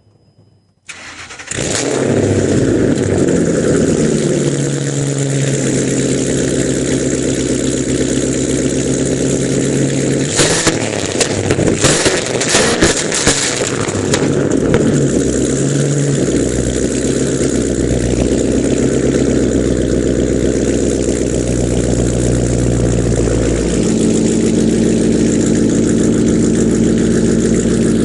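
2005 Mustang GT's 4.6-litre V8 starting about a second in and then idling loudly through stock headers, an off-road X-pipe with no catalytic converters or resonators, and Bassani axle-back mufflers. A few brief sharp noises come around the middle, and the idle steps down to a lower steady note near the end.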